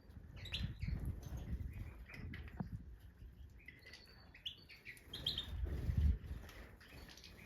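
European goldfinches of the Major type calling in short twittering chirps and slurred notes. A low rumbling noise comes and goes, loudest about six seconds in.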